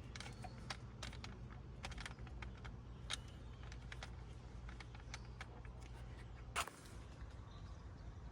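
Scattered light clicks and ticks, like small parts or tools being handled, over a low steady hum. The hum cuts off with a louder click about six and a half seconds in.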